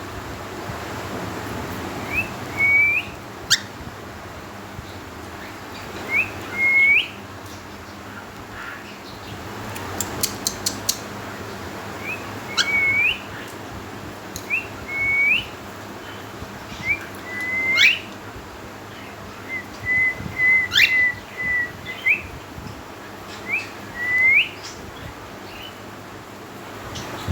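Cockatiel whistling short notes that hook upward at the end, often in pairs, every few seconds, with one longer wavering whistle about twenty seconds in. Sharp clicks like light taps fall between the calls.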